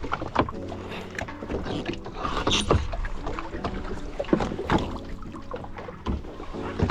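Small fishing boat at sea: a steady low motor hum, with scattered knocks and clatter on board.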